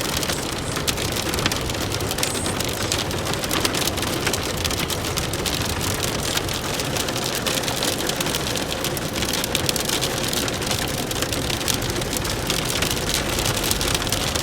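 Heavy rain falling steadily on a car, a dense, unbroken patter of drops striking it.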